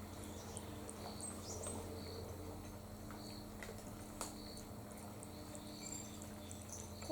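Small birds chirping, with short high notes repeating about once a second, over a steady low hum. A few sharp clicks are heard, the loudest about four seconds in.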